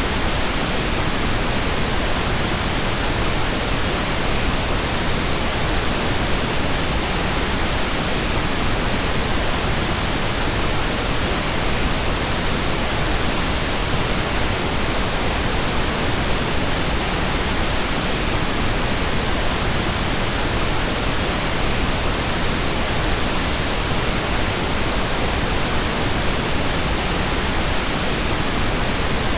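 Steady, unchanging pink noise: an even hiss across the whole range of pitch, without any events.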